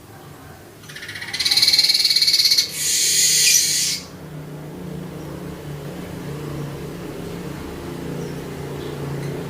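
Streaked weaver singing a loud, buzzy, rapidly pulsed song phrase in two parts, starting about a second in and stopping about four seconds in. A low steady hum follows.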